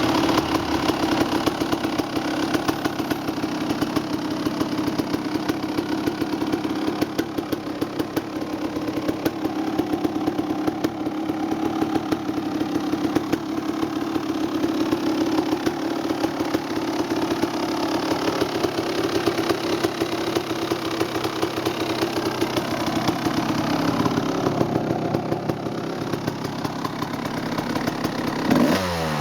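1992 Kawasaki KX250's 250cc single-cylinder two-stroke engine running at a steady idle on its first run after restoration, with a quick throttle blip near the end that sends the pitch rising.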